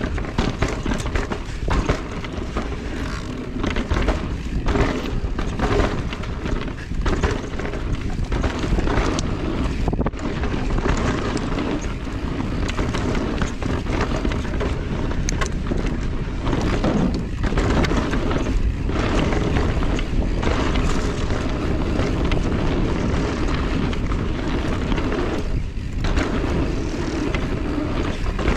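Wind rushing over the microphone and the tyres of a Salsa Notch Carbon e-mountain bike rolling over rough trail, with frequent knocks and rattles as the bike takes bumps.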